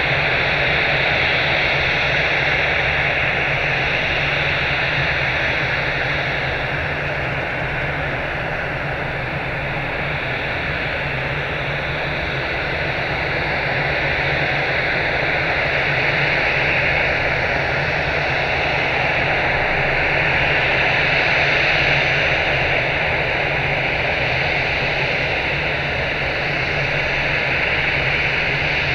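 Steady rushing jet-engine noise from an Airbus A320-family airliner, swelling and easing slowly in loudness.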